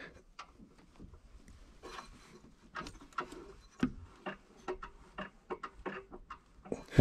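Irregular light clicks, knocks and rustles of handling under the car, with a sharper knock a little before the middle and a loud knock right at the end.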